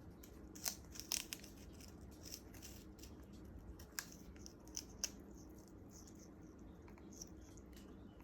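African grey parrot biting and tearing at sugarcane with its beak: a scattering of short, sharp crunching snaps, several in the first half, then one or two more, over a faint steady hum.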